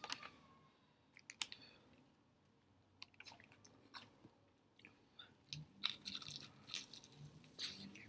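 Close-up mouth sounds of someone chewing a crispy fried hot wing: scattered wet clicks and crunches, getting busier in the last few seconds.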